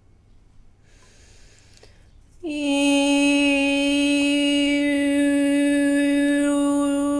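A soft intake of breath, then about two and a half seconds in a voice begins a loud, steady sung tone, scooping up briefly onto one held pitch: meditative vocal toning.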